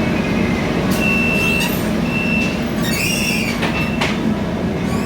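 Cabin noise of a Scania K320iA CNG city bus running: a steady engine and road rumble, with short high squeals about a second in, near two seconds and around three seconds, and a few brief rattles.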